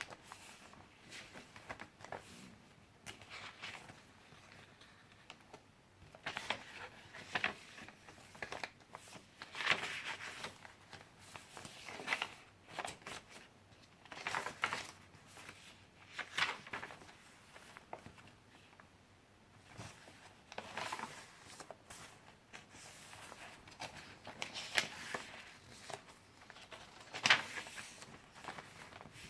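Pages of handmade paper junk journals being turned and handled, with soft rustling and crinkling swishes every few seconds.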